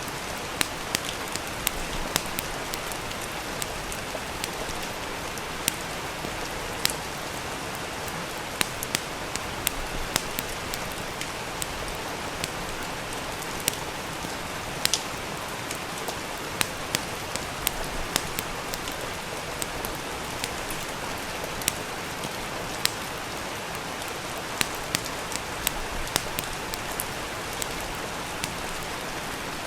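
Steady rain, an even hiss throughout, with irregular sharp pops and crackles from a wood fire scattered over it, a few to several each second.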